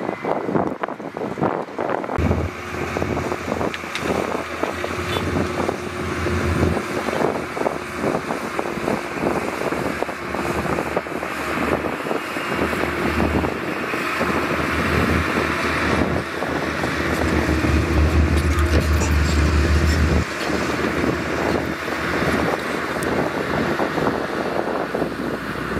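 Wind buffeting the microphone over a steady low engine hum; the hum starts about two seconds in and cuts off suddenly around twenty seconds in.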